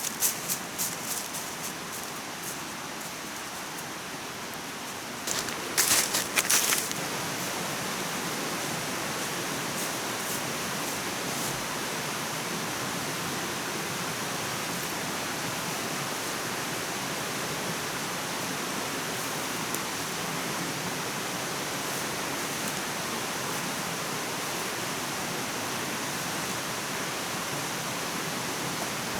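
Steady rushing water, with a few brief rustles near the start and about six seconds in.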